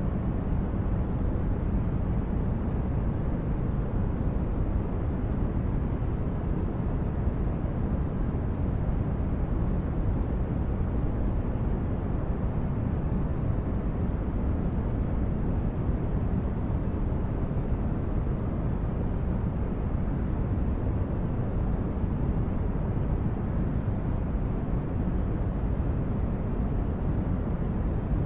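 Sci-fi spaceship ambience: a steady, low rumbling noise like brown noise, with no distinct events or tones.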